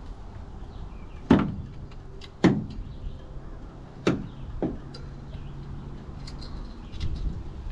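Tools knocking against an engine during cylinder-head removal: four sharp knocks over about three seconds, each with a short ring, and a duller thump near the end.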